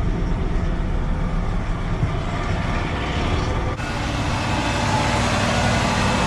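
Ford 302 V8 engine of a 1992 F150 running steadily just after being started for a test. The sound changes abruptly a little over halfway through, then runs on steadily.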